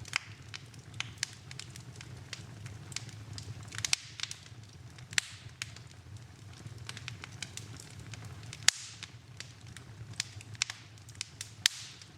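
Wood fire burning in a fireplace, crackling with irregular sharp pops and snaps, the loudest snap a little after the middle.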